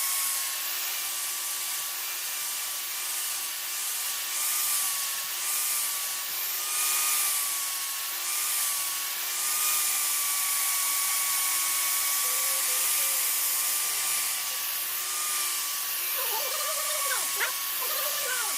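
A small electric power tool running steadily, a slightly wavering whine over a hiss. A few short clicks come in near the end.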